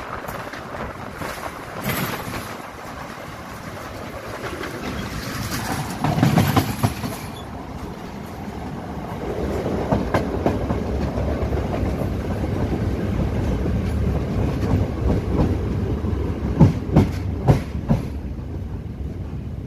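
Passenger train running along the track: a steady rumble of the carriages with wheels clacking over the rail joints. The rumble grows louder about halfway through, and a few sharp clacks stand out near the end.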